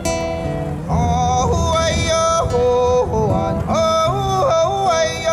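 Live singing of a Taiwanese indigenous traditional song: a male voice holds long notes and slides between them with ornamented turns, over a low sustained accompaniment.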